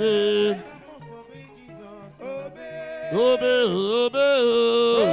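A solo voice singing a worship chant in long, held, wavering notes, over faint instrumental backing. About a second in the voice drops away and only the quiet backing is heard, until the singing comes back loudly near the end.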